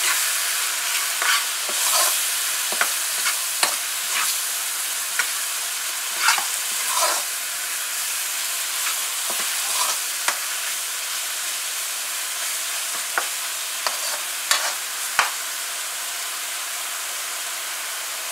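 Curry paste sizzling steadily as it fries in oil in a frying pan, while a metal spoon scrapes and knocks against the pan at irregular intervals as the paste is stirred. This is the paste being cooked and stirred to keep it from burning. The spoon strokes come more often in the first half.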